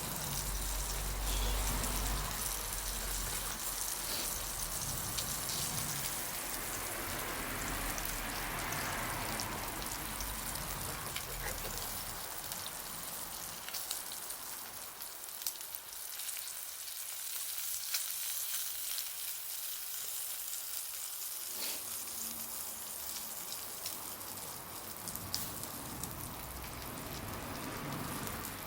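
Wood fire crackling and hissing, with a steady stream of small sharp pops.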